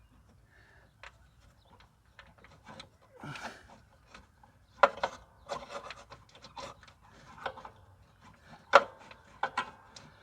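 Hands working at mower parts: scraping, rubbing and irregular clicks and knocks, with two sharper knocks about five seconds in and near the end.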